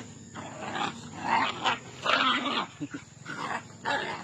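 Angry street dogs barking and snarling in a series of short, irregular bursts.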